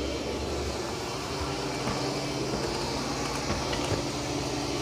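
Roborock Saros Z70 robot vacuum-mop running steadily as it cleans: an even motor whir with a steady hum.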